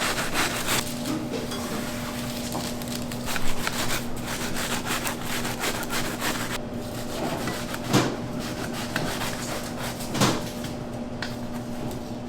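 Kitchen work noises: a few sharp knocks and clatters, the loudest about three and a half seconds in and two more near the end, over a steady machine hum.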